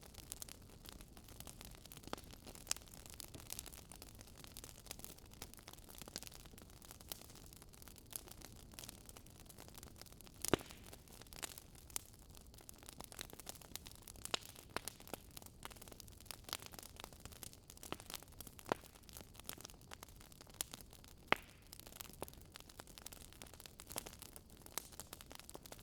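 Wood fire crackling quietly: irregular sharp pops and snaps over a soft hiss, with a few louder pops scattered through, the loudest about ten seconds in.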